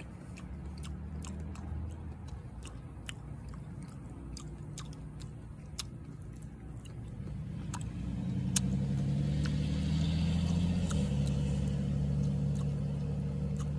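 Close-up biting and chewing of cactus fruit, with frequent sharp clicks. From about eight seconds in, a steady low engine hum grows louder beneath it.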